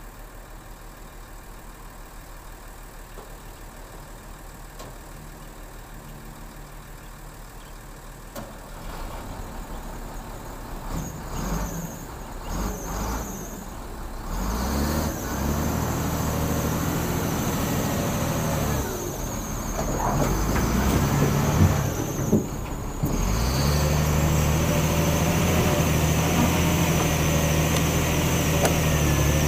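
Heavy diesel vehicle engine, quiet at first, growing louder from about eight seconds in, dropping briefly twice, then running steadily and loud near the end.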